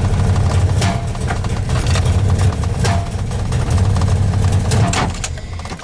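1993 Dodge Dakota's 318 V8 at a rough, uneven idle, with a few sharp clicks over it; the engine dies away about five seconds in as it is switched off.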